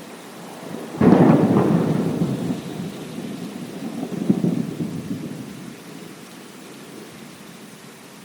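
Thunder over steady rain: a sudden loud clap about a second in, rumbling on with a second swell a few seconds later before fading back to the rain.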